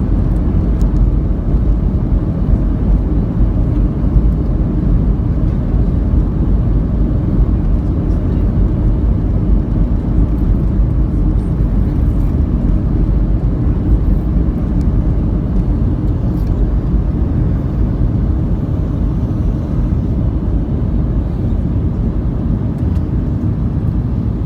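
Steady low rumble of an airliner cabin in flight, engine and airflow noise heard from inside the cabin, easing slightly near the end.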